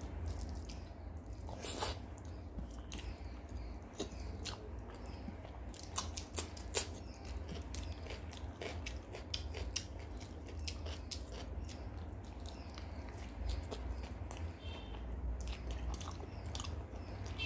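Close-miked eating sounds: chewing and wet mouth clicks and smacks as rice and chicken curry are eaten by hand, with fingers squishing rice, over a steady low hum.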